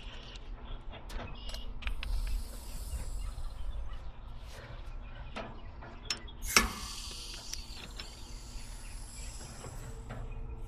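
Clicks, taps and rattles of tools and refrigeration fittings being handled, with one sharp, loud clack about six and a half seconds in followed by a hiss lasting a few seconds.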